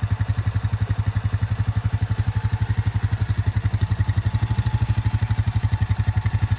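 A small farm-vehicle engine idling steadily, with an even pulse of about eleven beats a second.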